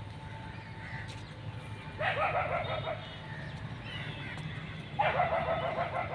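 Animal calls, two of them about three seconds apart, each lasting about a second, over a steady low hum.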